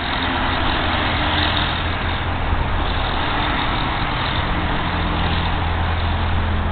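Steady low engine rumble under an even hiss, with no change in pitch or level.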